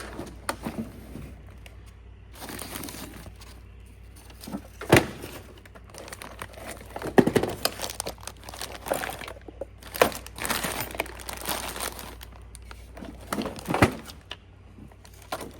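Rummaging through a cluttered pile of stored tools and odds and ends: items shuffled and moved about, with crinkling and rustling and several sharp knocks and clatters at irregular intervals.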